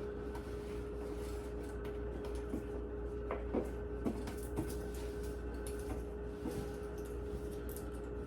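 Small rustles and light clicks of a dry rag wiping and picking debris out of the plastic interior of an emptied refrigerator, over a steady hum.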